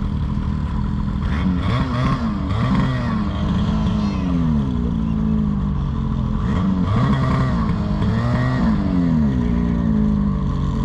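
Engine idling steadily while an engine is revved up and let back down several times. The machine is one whose rider says has a bearing going out.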